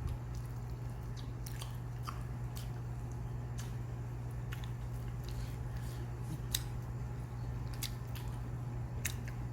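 Close-up eating sounds: chewing and biting with scattered small clicks of mouth and utensils, over a steady low hum.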